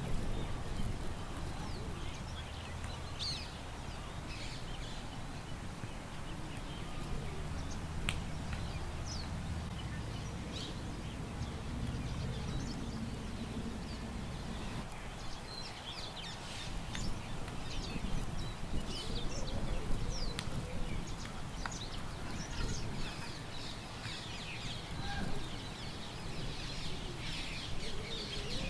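Birds chirping in short, scattered calls over a steady low wind rumble. The calls grow busier in the second half.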